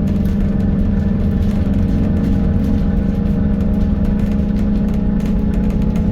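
Scania N280UD double-decker bus engine running steadily, heard from inside the passenger cabin as a continuous low drone.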